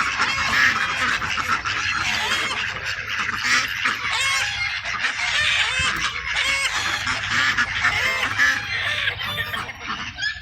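A flock of domestic geese honking, with many calls overlapping continuously.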